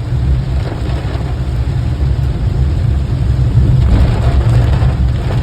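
Car driving in the rain: a loud, steady low rumble of the vehicle with a hiss of rain over it.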